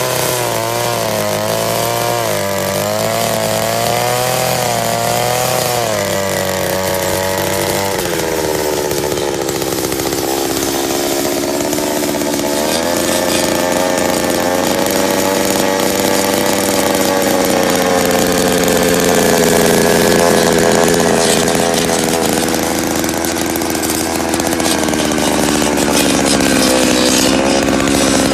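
Small engine of a motorised earth auger running steadily. Its pitch wavers up and down for the first several seconds, drops at about eight seconds, and then holds steadier with slow drifts.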